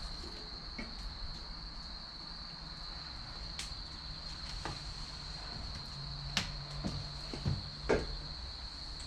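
Chestnut and cherry firewood burning in a fire stand, crackling with scattered sharp pops, the loudest two about two-thirds of the way through. A steady high-pitched whine runs underneath.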